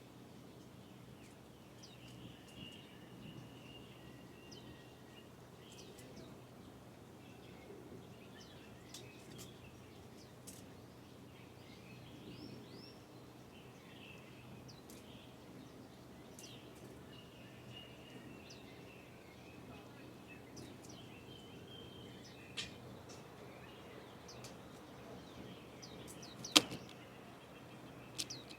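Swinhoe's white-eyes feeding close to the microphone: faint thin twittering calls, small rustles and wing flutters, with a sharp tap about 22 seconds in and a louder one near the end.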